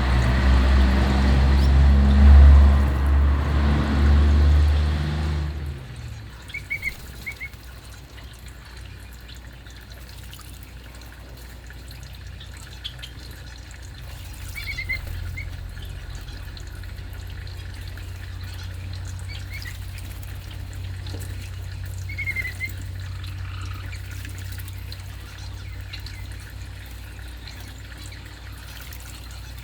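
A loud rush of water for about the first six seconds, then a low steady hum with a few short chirps of a stripe-throated bulbul, some in quick pairs, scattered through the rest.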